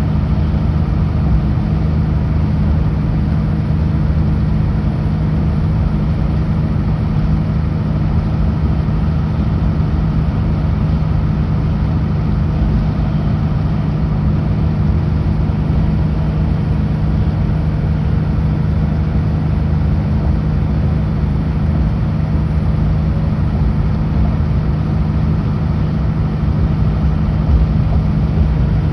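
Kenworth W900L semi truck's diesel engine running steadily while driving on the highway, a constant low drone over road rumble.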